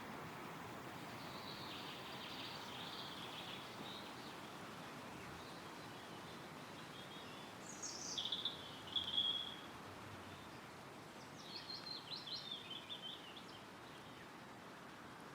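Wind rustling through trees as a steady hiss, with small songbirds singing short phrases over it: a faint warble in the first few seconds, a louder downward-sweeping call and trill about eight seconds in, and a quick run of notes a few seconds later.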